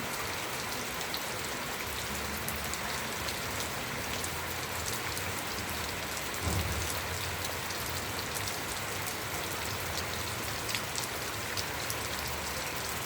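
Steady rainfall with many individual drops pattering on a surface, and a single low thump about six and a half seconds in.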